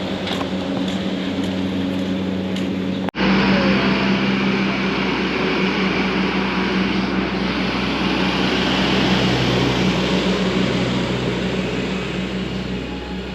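Steady mechanical hum and rush of a Disney Skyliner gondola cabin riding along its cable, with light ticking early on. The sound cuts out for an instant about three seconds in and comes back louder.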